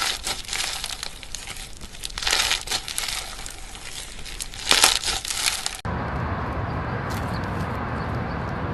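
Slime being squeezed and worked by hand, giving crackly, crinkly squishing with a few louder squelches. About six seconds in it cuts off abruptly to a steady, even rumbling background noise.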